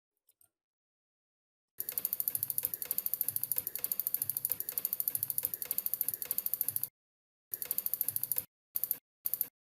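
A ratchet clicking rapidly, about eight clicks a second, in a long run of five seconds followed by three short runs.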